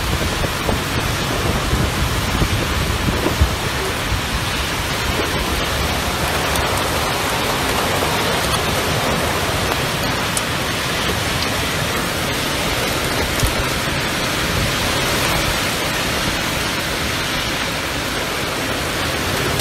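Heavy wind-driven rain pouring down in a storm: a steady, dense hiss with an uneven low rumble underneath.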